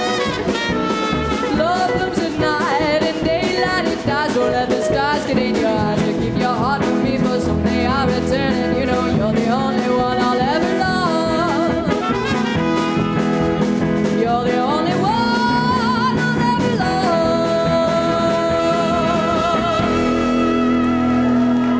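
Live lounge band music with a steady drum beat, bass, guitar and tenor saxophone, settling into a long held final note near the end.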